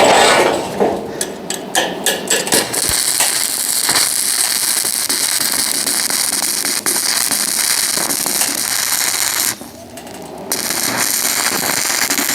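Electric arc welding on stainless steel pipe: a steady crackling arc that runs for about eight seconds, breaks off for about a second, then strikes again.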